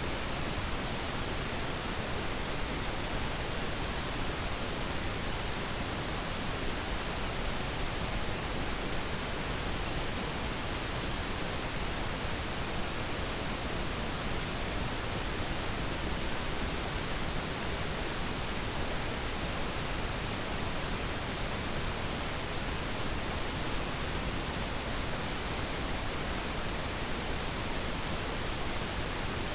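Steady pink noise, an even unchanging hiss with no other events.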